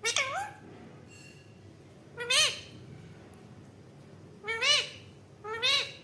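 A pet parrot giving four short meow-like calls, each rising and then falling in pitch, spaced one to two and a half seconds apart.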